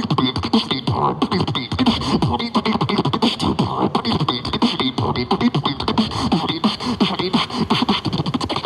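Human beatboxing: a fast, continuous stream of mouth-made kick, snare and hi-hat sounds with short falling bass sweeps, several hits a second.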